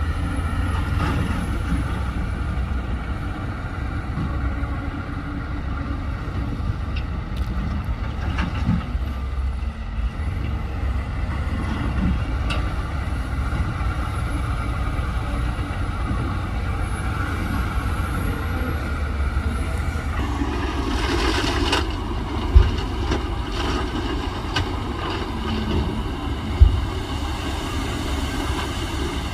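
Heavy diesel earthmoving machinery running steadily at work, with a burst of air hiss about 21 seconds in and a couple of sharp clanks near the end.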